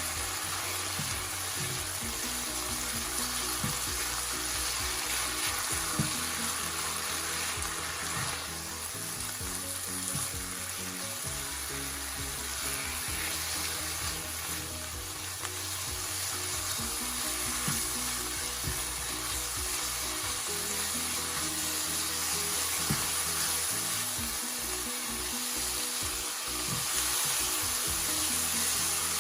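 Minced chicken sizzling steadily in a pan with the added sauces and spices, stirred now and then with a few spoon clicks against the pan.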